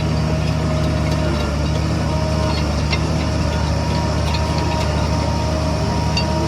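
Heavy diesel engine of earthmoving machinery running steadily with a low, even drone and a few faint clicks.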